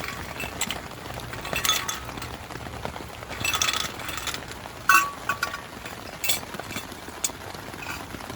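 Scattered clinks and knocks of small hard objects, a few ringing briefly, the sharpest about five seconds in, over a steady hiss of rain.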